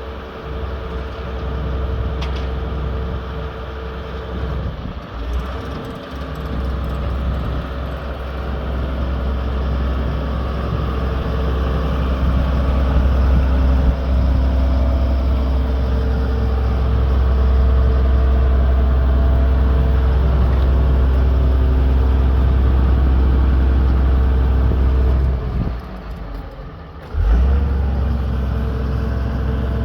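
Diesel engine of an Iveco Eurocargo truck running steadily, a deep hum with a steady higher tone over it. Near the end it drops away for about a second and a half, then comes back abruptly.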